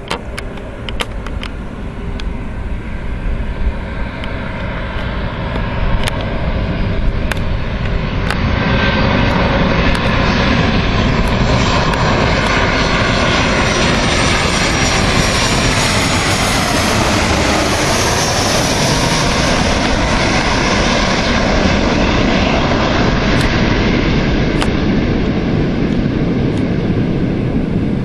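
Boeing 737-800's CFM56 jet engines on landing approach: a rumble that grows louder over the first several seconds and then holds steady, with an engine whine that slides in pitch as the airliner passes close by.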